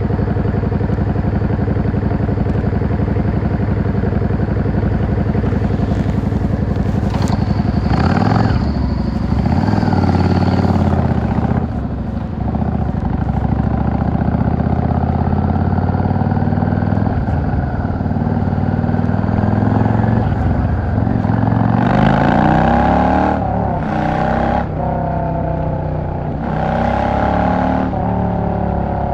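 Yamaha XVS 650 V-Star's air-cooled V-twin engine idling low and steady, then pulling away about eight seconds in. The revs climb and drop again several times as it shifts up through the gears.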